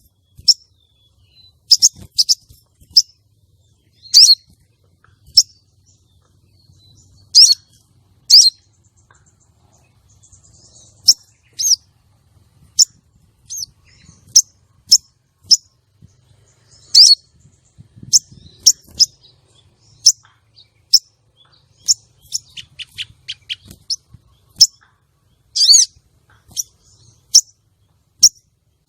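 Female sogon (crested jay) calling: sharp, high chirps repeated irregularly about once a second, with a quicker run of short descending notes about three-quarters of the way through. These are the female's calls used as a lure to rouse male sogon.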